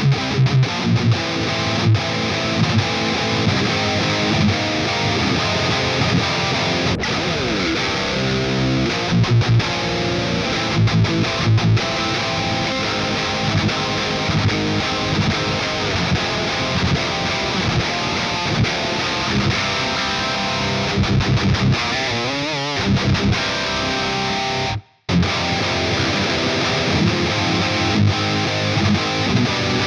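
Electric guitar through Peavey 5150-style high-gain distortion playing metal riffs. The sound cuts out completely for a moment about 25 seconds in, then the riffing starts again.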